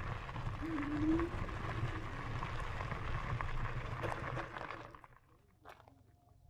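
Wind rumble on the microphone and trail noise while riding an e-bike, with a short low squeak about a second in. It drops away suddenly about five seconds in, leaving a quiet background with one click.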